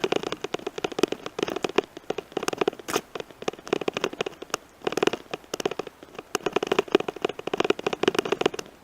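Bicycle crunching and rattling over a rough gravel forest road: dense crackling clicks that surge about once a second.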